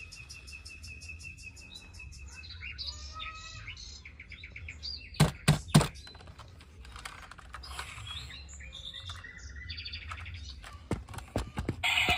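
High chirping tones, some in rapid pulses and some short gliding calls, with three sharp knocks in quick succession about five seconds in and a few lighter clicks near the end.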